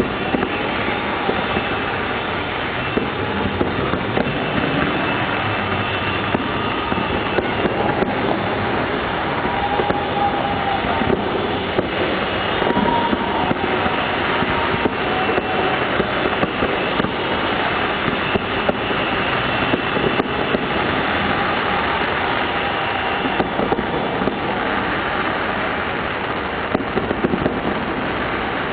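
Fireworks display: a dense, steady crackle with frequent sharp bangs, over a crowd cheering and whistling, with short horn honks now and then.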